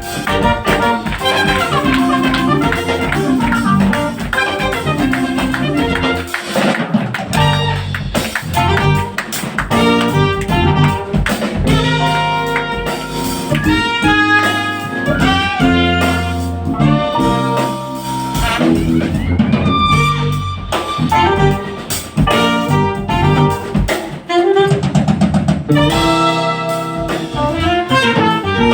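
Jazz playing: a horn melody over a drum kit.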